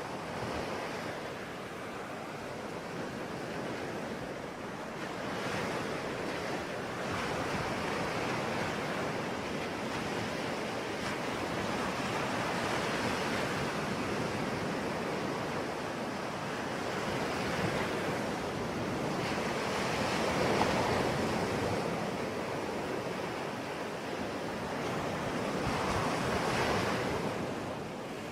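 Sea waves breaking and washing on the shore, a steady surf that swells and ebbs every few seconds.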